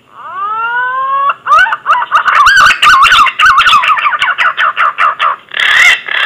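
Green pigeon (punai) song played as a lure call: a long rising whistle, then a quick run of warbling whistled notes, ending in two louder, rougher notes.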